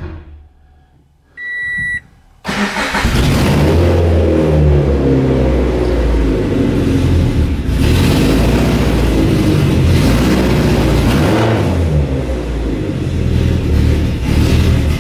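A short electronic beep, then the Scion FR-S's 2.0-litre flat-four catches about two and a half seconds in and runs loud and rough through bare headers with no rest of the exhaust fitted. The sputtering, which the owner puts down to the missing mass airflow sensor, the removed flex-fuel kit or the missing O2 sensors.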